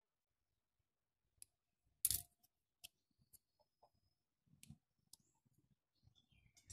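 Near silence broken by a few scattered faint clicks and light knocks, the sharpest about two seconds in.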